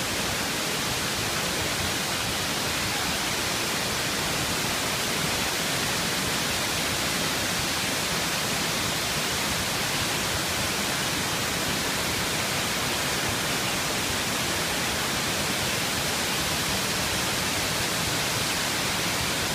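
Oshinkoshin Falls rushing: a steady, unbroken roar of falling water.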